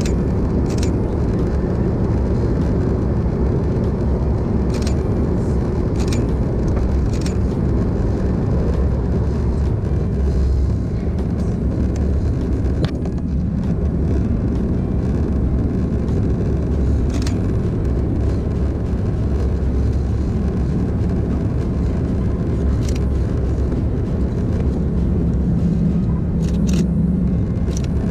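Steady low rumble inside the cabin of an Airbus A330-200 airliner, from its engines and the airflow, with a few short knocks and rattles scattered through it.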